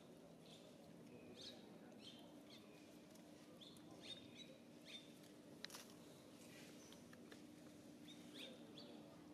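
Faint bird chirps: short high calls, some sweeping up or down, about one every half second to second, over a quiet outdoor background with a faint steady hum.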